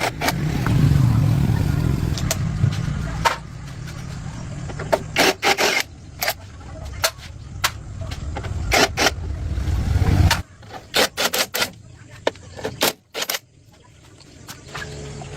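An engine running with a steady low rumble and many sharp metallic clicks and knocks over it, cutting off abruptly about ten seconds in; scattered knocks follow.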